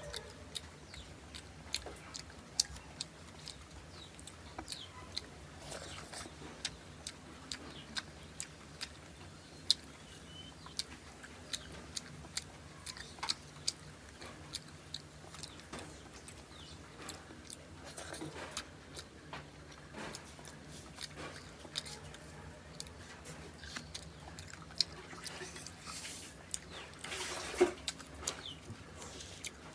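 Close-miked chewing and wet mouth clicks of a person eating fried fish and rice with the fingers: many sharp, irregular smacks and clicks over a faint steady low hum.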